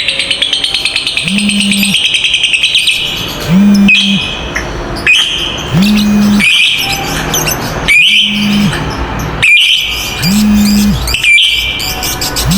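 Lovebirds chattering: a fast rattling trill, the long 'ngekek', in the first few seconds, then harsh shrill calls about every one and a half to two seconds. A low steady tone repeats underneath about every two seconds.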